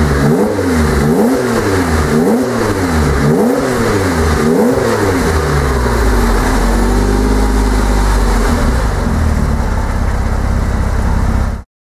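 Freshly built 3.7 L turbocharged Porsche Cayman flat-six on its first start. It is blipped up and down in quick revs about once a second for some five seconds, then settles to a steady idle. The sound cuts off abruptly near the end.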